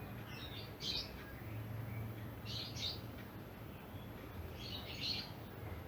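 Bird chirping in short calls, three brief bursts, over a faint steady low hum.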